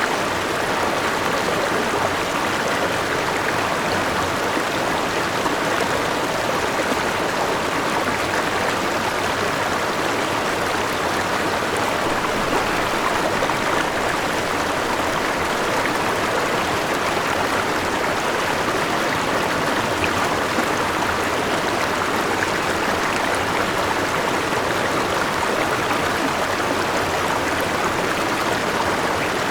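Forest river with a small waterfall rushing and splashing, a steady, unbroken water sound.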